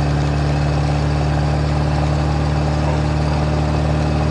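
VAZ 2107's four-cylinder engine running at a steady speed, with road noise, heard from inside the cabin while driving.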